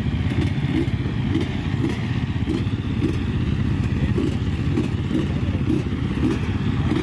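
Off-road motorcycle engines running steadily at idle, warming up before a motocross ride.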